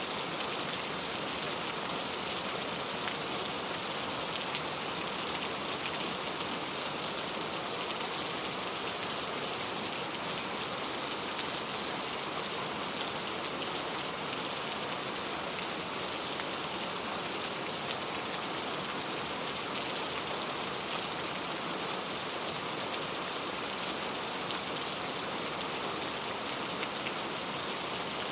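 Steady rain falling on a surface: an even hiss of many fine drops pattering, with no thunder.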